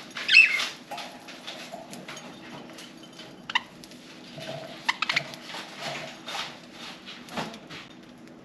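Budgerigars chirping and chattering softly while feeding on millet, with one loud chirp near the start and a few short, sharp chirps about halfway through.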